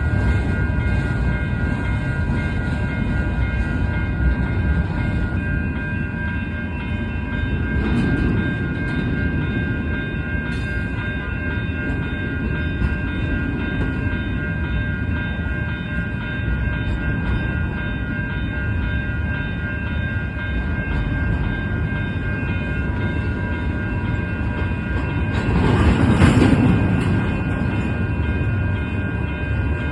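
Union Pacific freight train of empty cars rolling steadily past, a continuous low rumble with steady high ringing tones over it. It swells louder briefly near the end.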